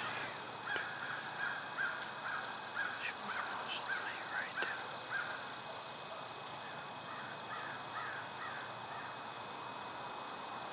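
A bird calling in a quick series of short, even notes for about four seconds, with a few more notes later on. There are a few light clicks among them.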